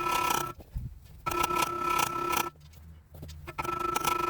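A small motorised tool running in short bursts of about a second each, three times, with a steady whine and brief pauses between.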